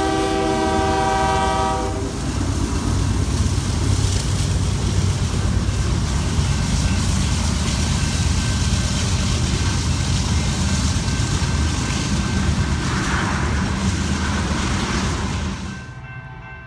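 A Union Pacific GE ES44AC locomotive's K3L air horn sounds a chord, ending about two seconds in. Then the freight train passes close by: a steady heavy rumble of diesel engines and wheels on the rails. Near the end the sound drops suddenly to a fainter scene with a distant horn.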